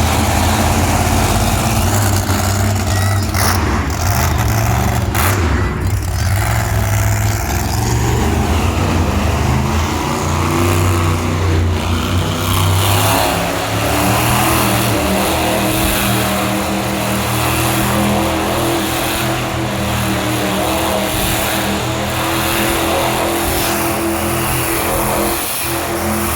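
Monster truck engine running at high revs as the truck spins donuts, the revs rising and falling.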